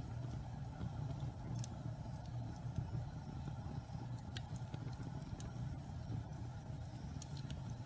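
Wood fire burning in a fireplace: a steady low rumble of the flames with a few sharp crackles and pops from the burning logs.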